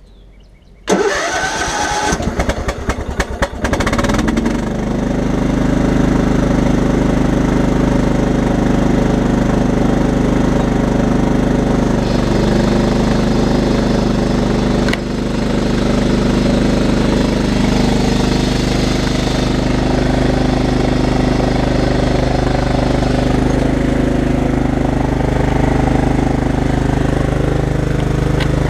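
1997 Craftsman riding mower's 15 hp Kohler engine cranking for about three seconds, then catching and running steadily on a cold start, its first start since last winter. The level dips briefly about fifteen seconds in.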